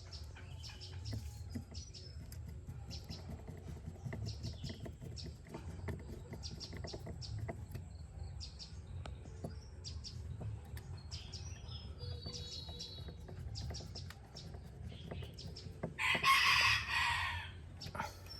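A loud rooster crow near the end, lasting a little under two seconds, over a steady low hum with scattered light clicks and faint bird chirps.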